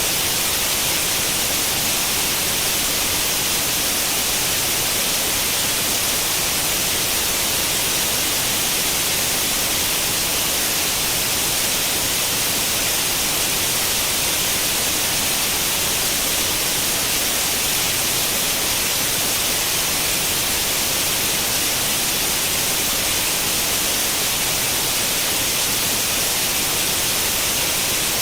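Television static white noise, like an old tube TV tuned to an empty channel: a steady, unchanging hiss, strongest in the treble.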